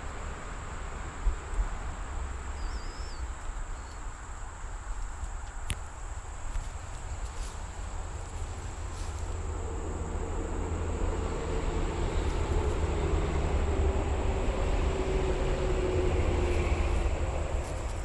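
A distant vehicle engine hum that comes in about halfway and grows louder, over a steady high insect-like buzz and low rumble.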